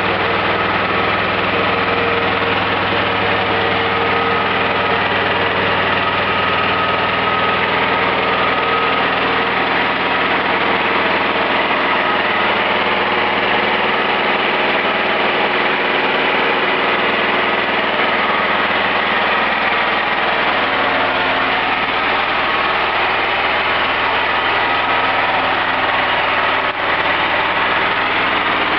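Small generator engine running steadily on wood gas from an Imbert-type gasifier, turning slowly at about 2200 RPM rather than the usual 3000.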